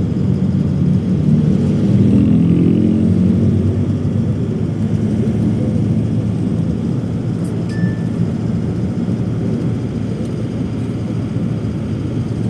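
Steady drone of jet engines and airflow heard inside an airliner cabin, strongest in the low range. A brief high beep sounds about two-thirds of the way through.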